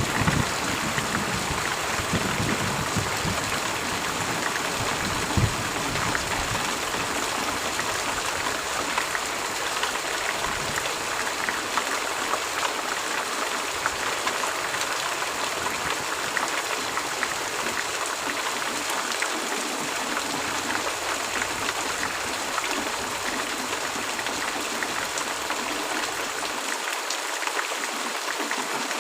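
Heavy rain falling in a steady hiss, with a low rumble of thunder dying away over the first few seconds.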